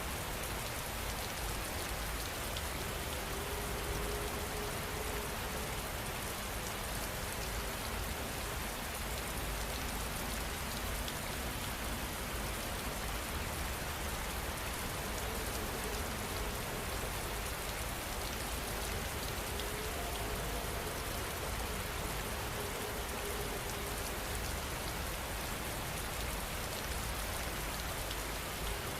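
Heavy rain falling steadily, an even, unbroken hiss of raindrops.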